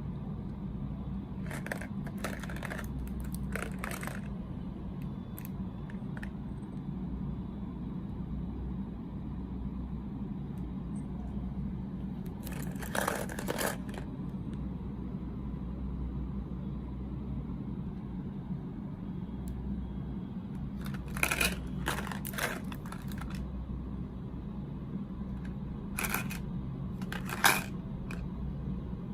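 Snack packaging being handled and opened: short clusters of crinkling and tearing come every several seconds, over a steady low hum.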